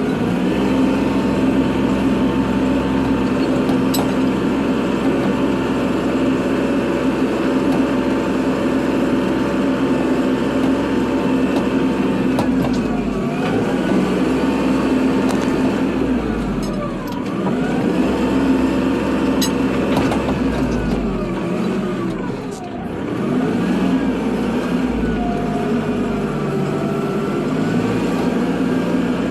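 Kubota tractor's diesel engine running steadily while plowing snow. Its pitch dips and comes back up a few times in the second half as the load on it changes.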